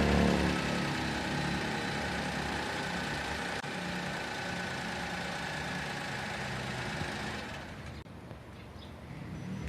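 Honda Acty HA6 truck's small three-cylinder engine idling just after a remote start, its speed settling from a higher fast idle during the first second. About seven and a half seconds in the sound becomes much fainter.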